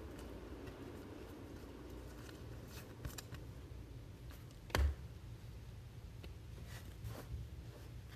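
Trading cards being handled and flipped through by hand, with soft rustles and small clicks, and one louder knock about five seconds in.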